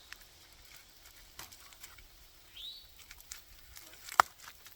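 Scattered clicks and rustling of old vines being cut and pulled out of wire fencing, with one sharp click about four seconds in. A bird gives a short rising chirp a little over halfway through.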